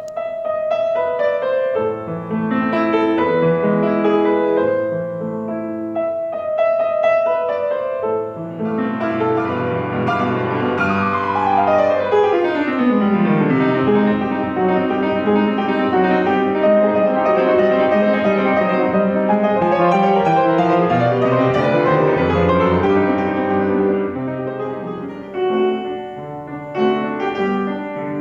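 Solo piano playing classical music. Separate chords give way to a fast, dense passage with a long descending run about halfway through, then the playing thins out near the end.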